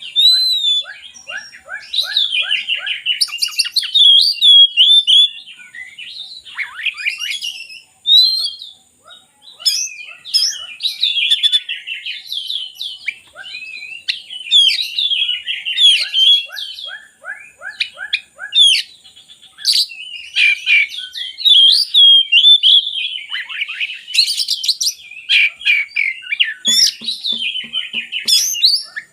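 Oriental magpie-robin (kacer) singing a long, varied song of loud whistled phrases broken up by rapid chattering note series, with a short pause about eight seconds in.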